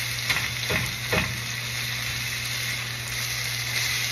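Bitter melon, egg and sweet bagoong sizzling steadily in a non-stick frying pan as they are stir-fried. The spatula scrapes and knocks against the pan three times in the first second and a half.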